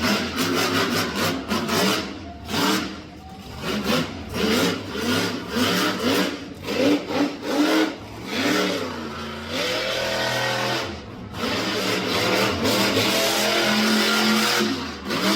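Monster truck engine revving hard again and again, its pitch rising and falling with the throttle, with two short lulls between runs.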